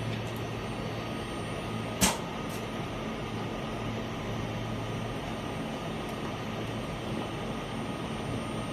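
Steady electrical hum of a pleated filter cartridge welding machine, with one sharp click about two seconds in and a fainter click shortly after.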